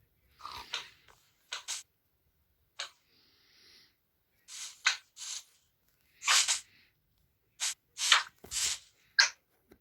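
A series of short scraping and rubbing noises, about ten brief strokes at irregular intervals, with silence between.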